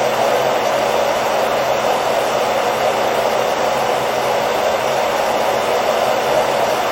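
Hair dryer running steadily: a constant airy rush with a low motor hum underneath, played continuously as soothing sleep noise for a baby.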